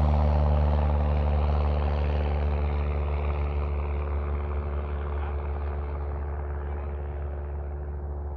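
Small propeller engine running at a steady pitch, slowly fading away.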